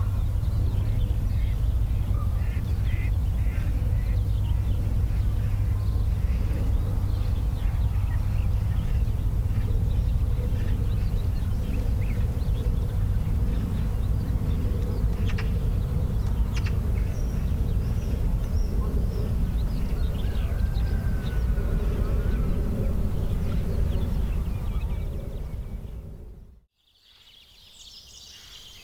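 Outdoor ambience: a steady low rumble with faint chirps above it. About 26 seconds in it fades away and cuts to a quieter scene with a steady high-pitched hiss.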